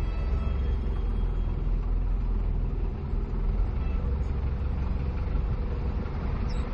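Vehicle engines idling, a steady low rumble heard from inside a car's cabin.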